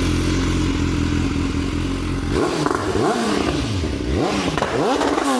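BMW S1000R inline-four motorcycle engine through an Akrapovic aftermarket exhaust, idling steadily, then from about two seconds in being revved in a run of quick throttle blips, the revs rising and falling again and again.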